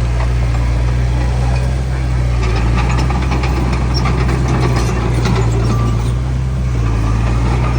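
Heavy diesel engine of a Komatsu D31P bulldozer running steadily and loudly, with scattered clicks and rattles over it.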